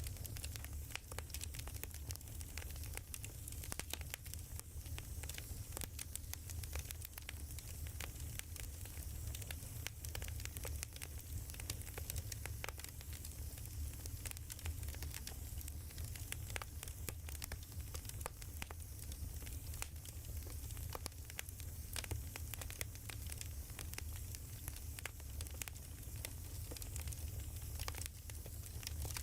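Burning firewood crackling and popping in many small irregular snaps, over a steady low rumble of the fire.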